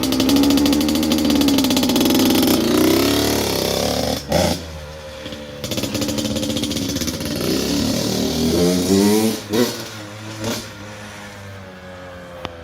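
Honda CR85R two-stroke dirt bike engine revving as the bike is ridden, its pitch climbing and dropping through the gears. Loud for the first few seconds, then fainter, with further rises in revs as it moves away.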